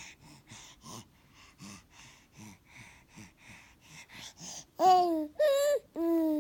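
Baby making funny noises: a run of quiet, quick breathy huffs, about two a second, then three short loud voiced squeals close together near the end.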